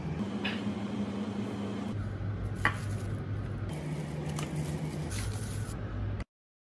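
Kitchen handling noises, a steady rustle with a few light clinks, over soft background music with a slow low bass line. The sound cuts out abruptly shortly before the end.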